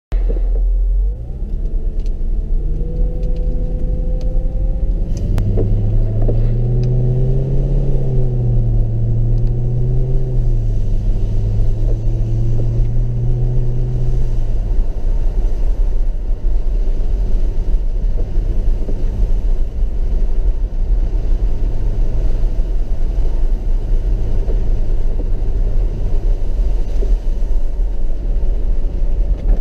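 Mercedes-Benz SLK 55 AMG's V8 engine heard from inside the cabin, accelerating away with its note rising over the first few seconds. It then rises and falls with the throttle until about halfway through, and after that settles into a steadier low drone under tyre and road noise on a wet road.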